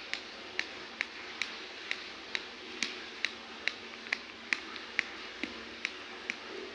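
A steady series of sharp ticking clicks, evenly spaced at a little over two a second, over a faint hiss.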